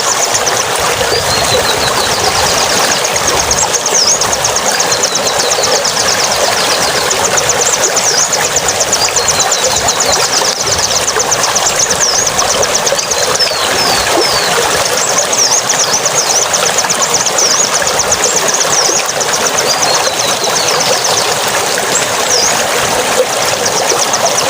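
Steady rush of flowing water, with high, rapid bird trills and short falling chirps heard over it again and again.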